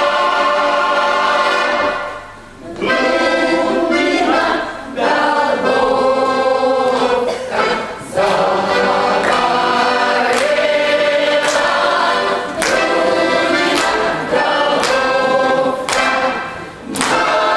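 Choral singing: a choir holding sustained chords in phrases, with short breaths between them.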